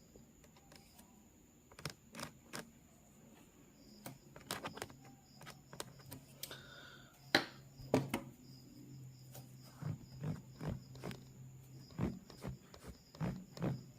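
Pencil sketching on paper: short, separate strokes and taps, a few at a time, the sharpest two about halfway through. A faint steady low hum runs under them from about a third of the way in.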